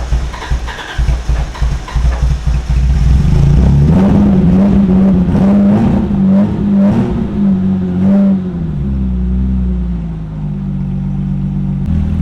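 BMW E30's straight-six engine being started: a choppy, uneven sound for the first few seconds, then it catches and runs, revved up and down a few times before settling into a steady idle near the end.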